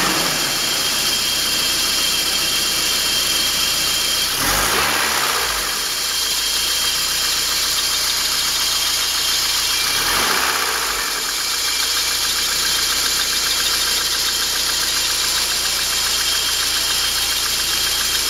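BMW M40 1.8-litre four-cylinder engine (1796 cc) of an E30 318i idling steadily just after starting, heard under the open bonnet. Its note swells briefly twice, about four and a half and ten seconds in.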